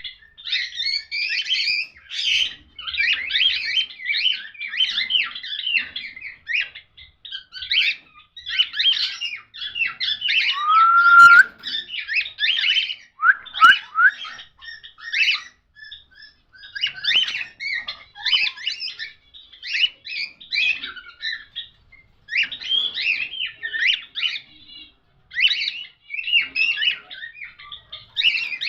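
Cockatiels chirping and chattering in dense, overlapping bursts, with a loud rising whistle about eleven seconds in and a short run of rising whistles soon after.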